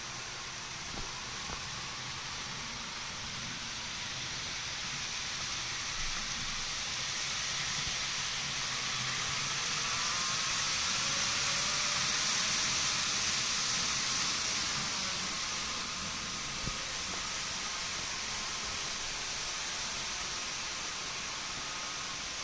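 N-gauge model Shinkansen train running past on its track over a steady hiss: the noise swells to a peak about halfway through and fades again, with a faint whine that bends in pitch as it passes.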